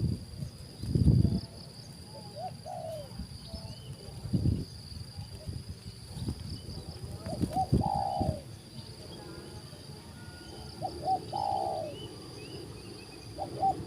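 Spotted dove cooing: four phrases, each two short notes followed by a longer falling coo, about every three to four seconds. A steady high-pitched insect drone runs underneath, with a few low rumbling thuds in the first half.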